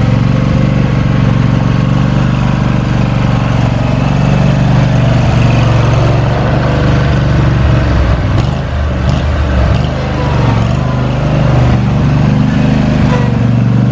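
Riding lawn mower's engine running steadily, loud and even with a slight dip in the middle.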